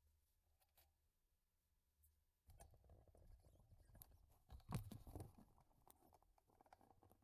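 Quiet handling noises of small parts or tools being worked by hand: light clicks, scrapes and rustles that start about two and a half seconds in, with one louder knock near the middle.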